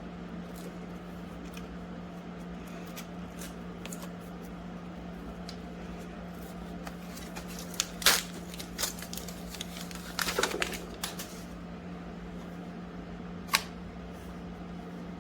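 Clicks and light rattles of plastic parts as a new hair dryer and its pieces are handled, with one sharp click about 8 seconds in, a run of clicks a couple of seconds later and another click near the end. A steady low hum runs underneath.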